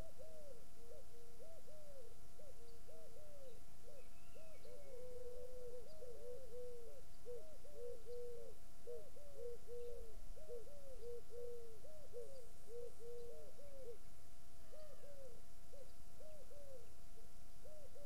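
A bird calling a fast, uneven run of short hooting notes, each rising and falling in pitch, about two or three a second, with a brief break near the end. A faint higher chirp comes about four seconds in.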